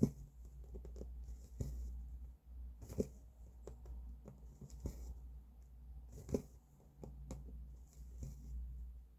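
Hand cross-stitching: a needle clicking as it is pushed through stiff stitching fabric, with the soft rasp of thread drawn through after it and lighter ticks between. The sharpest clicks come about every three seconds, over a low steady hum.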